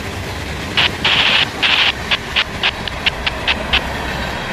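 Loaded freight train of tank cars and open hopper cars rolling past at speed, a steady rumble of steel wheels on rail. About a second in comes a run of short high hissing bursts that grow shorter and quicker toward the end.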